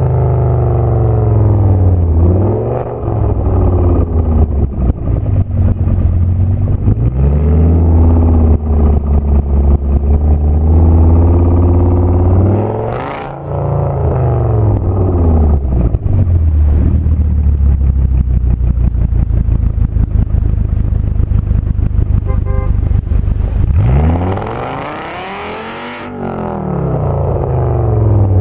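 Audi S8's V10 through a loud Meisterschaft aftermarket exhaust, pulling hard with the revs climbing and dropping several times as it shifts and lifts, with a rapid crackle running through the exhaust note.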